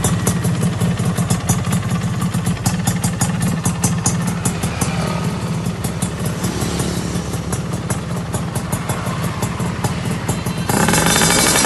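Two-stroke underbone motorcycle fitted with a racing exhaust, running at a steady low speed with a regular ticking beat of music over it. Near the end it jumps louder, as the engine is blipped up.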